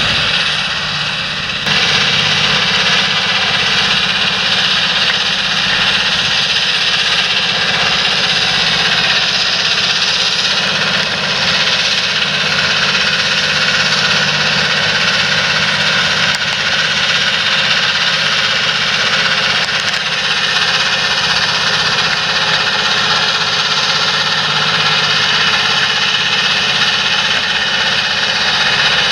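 Large John Deere tractor's diesel engine running steadily at working load, a low steady hum under a dense hiss that picks up about two seconds in.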